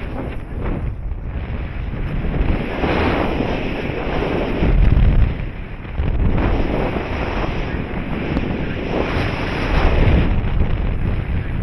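Wind rushing over the microphone of a paraglider pilot in flight, heaviest in the low rumble and surging in uneven gusts every second or two.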